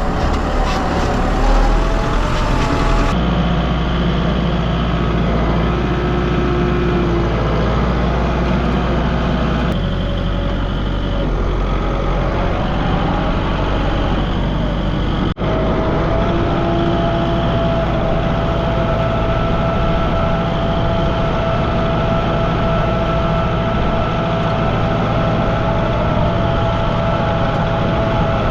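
A vehicle engine running steadily, with a low hum and a whine above it. The sound changes abruptly three times, as between spliced clips.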